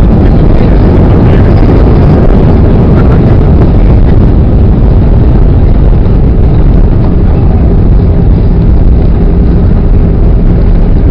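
Loud, steady rumble of an easyJet Airbus A320-family jet heard from inside the cabin: engine and rushing-air noise, heavy in the low end with a faint steady hum.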